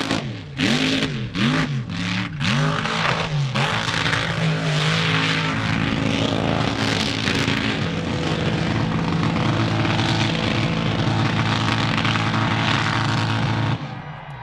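A mud truck's engine revved in about five quick blips, then held steadily at high revs before the sound cuts off abruptly near the end.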